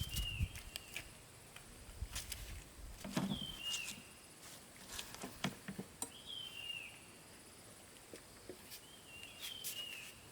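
A bird chirping, a short falling call repeated about every three seconds, with scattered sharp taps and clicks.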